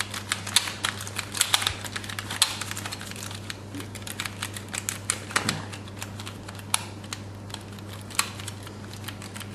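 Plastic buttons on a toy remote control being clicked repeatedly and irregularly, quicker in the first few seconds and sparser later. No motor sound comes from the toy plane, which is not responding to the controls.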